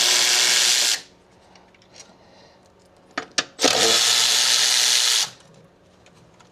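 A power tool running in two steady bursts: one cuts off about a second in, and the second runs for just under two seconds, starting past the middle.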